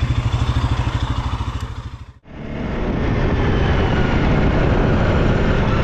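Quad bike engine idling with an even pulsing beat. About two seconds in it fades out briefly and gives way to an engine running more steadily and densely.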